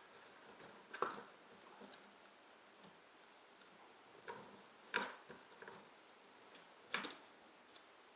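A dachshund biting and tearing at a cardboard shipping box: sharp cardboard crackles, loudest three times, about a second in, around the middle and near the end, with fainter scrapes between.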